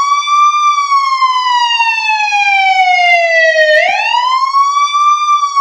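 Ambulance siren wailing: a tone that slowly falls for about three seconds, sweeps back up a little under four seconds in, and begins to fall again.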